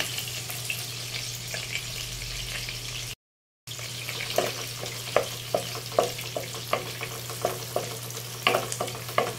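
Ground pork frying in oil in a non-stick wok, sizzling steadily as soy sauce goes in. After a brief dropout about three seconds in, a wooden spatula stirs the meat, knocking against the pan every half second or so.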